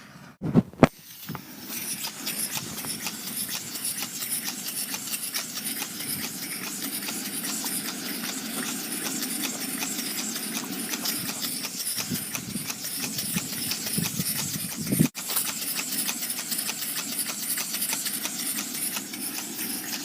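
Homemade steam engine running on steam: a rapid, even chuffing over a steady hiss of steam. Two sharp knocks in the first second, and one more about fifteen seconds in.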